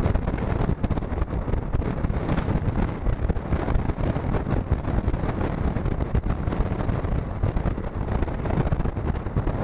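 Express passenger train running at speed, heard from on board: a steady rumble of wheels on the rails with wind buffeting the microphone.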